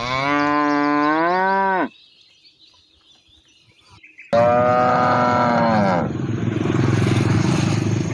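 Cow mooing twice: a call of about two seconds, then after a short pause a second call that falls in pitch and turns rough and breathy for its last few seconds.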